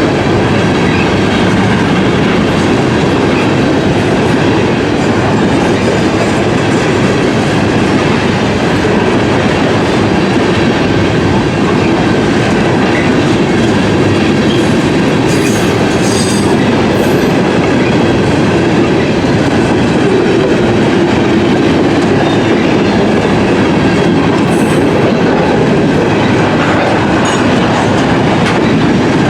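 A train's cars rolling past close by: steady, loud wheel-on-rail noise with clickety-clack, and brief high-pitched wheel squeaks about halfway through and again near the end.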